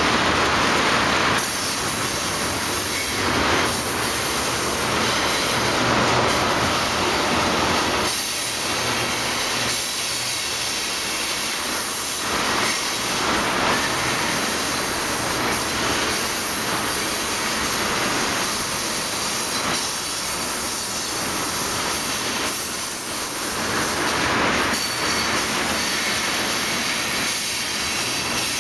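Freight train tank cars rolling past: a steady rumble and hiss of steel wheels on the rails.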